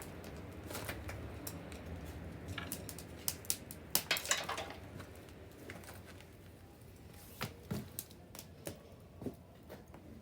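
Wood bonfire crackling, with irregular sharp pops and snaps and a burst of louder ones about four seconds in.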